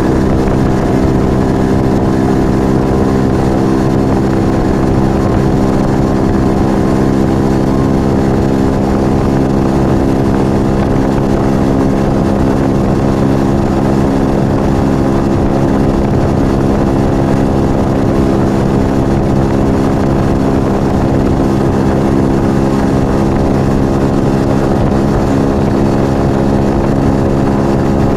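Yamaha XV125 Virago's small air-cooled V-twin running through a Turbo Kit aftermarket exhaust, cruising at a steady engine speed with an even, unchanging note.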